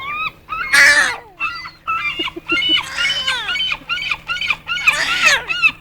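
Seagulls calling in a rapid series of short yelping notes, mixed with a baby's high squeals imitating them.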